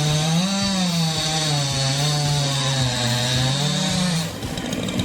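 Chainsaw engine running hard, its pitch sagging and recovering as the chain is loaded in the wood. It stops a little after four seconds in.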